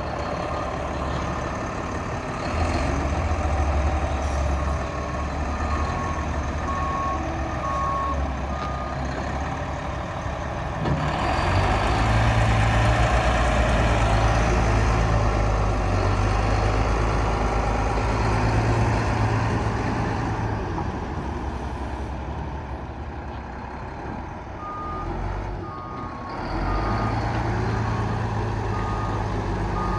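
Volvo A30G articulated dump truck's diesel engine running, rising in level for several seconds in the middle as it works harder. Its reversing alarm beeps in two spells of evenly spaced beeps, about five seconds in and again near the end.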